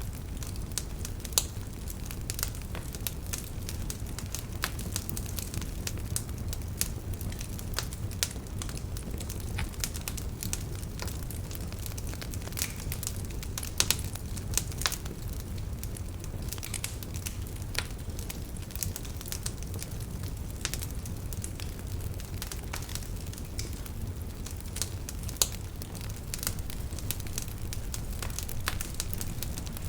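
Wood fire burning in a fireplace: a steady low rumble of flame with frequent irregular crackles and a few sharper, louder pops.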